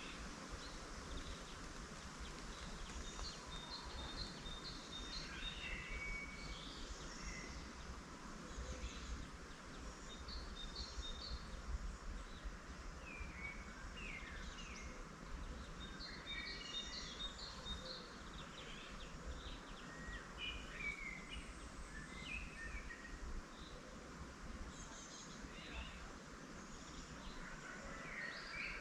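Several small birds singing and calling in spring, one of them repeating a quick series of high notes several times, over a steady background hiss and low rumble.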